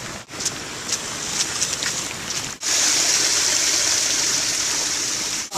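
Heavy rain pouring down: a steady hiss of rain with scattered drips, which cuts to a louder, steadier hiss about two and a half seconds in.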